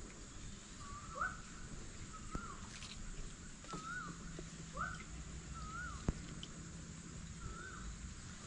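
A bird calling over and over, a short rising-and-falling note about once a second, over a steady high hiss. A single sharp click about six seconds in.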